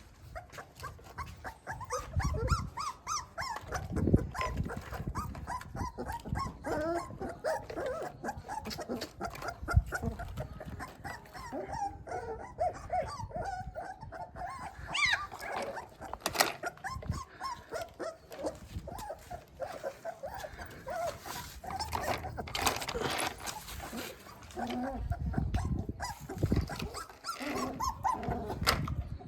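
A puppy whimpering and whining in many short, wavering high squeaks, with now and then a low thump of handling.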